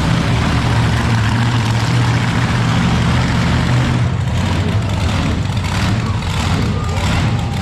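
Monster truck engine running loud with a steady low drone, surging unevenly in the second half.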